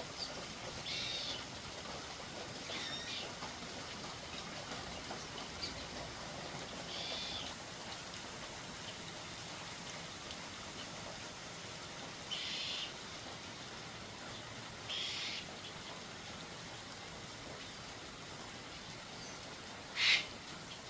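A bird calls in short, separate squawks or chirps, about six in all, spaced several seconds apart. The last one, near the end, is the loudest. A steady faint hiss lies underneath.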